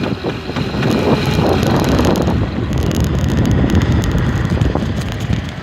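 Wind buffeting the camera's microphone while riding a mini dirt bike, with the bike's running noise underneath; it eases off a little near the end.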